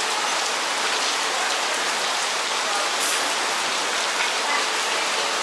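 Torrential tropical rain falling, a steady even hiss.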